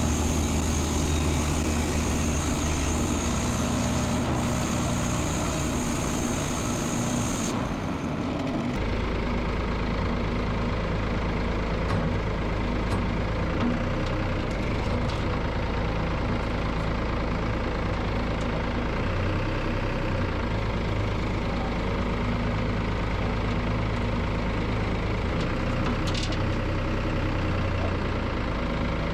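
An engine running steadily at idle. The sound changes abruptly about eight seconds in, then holds as a steady hum.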